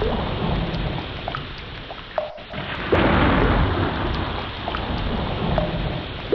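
Ocean waves surging and washing back, swelling again about three seconds in after a brief lull, with scattered short rising squeaks in the water.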